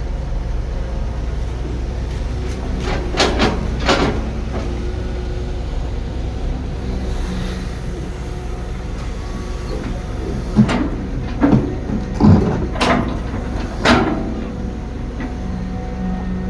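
Heavy construction machinery running with a steady low diesel rumble, with sharp metallic clanks: two about three to four seconds in, then a cluster of five near the end.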